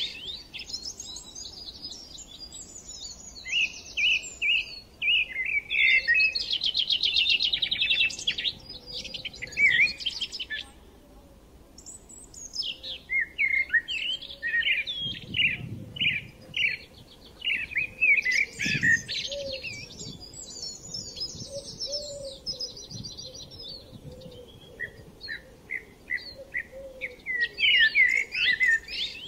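Birds chirping and singing in fast trills and varied chirps, in repeated bursts with a short lull about eleven seconds in.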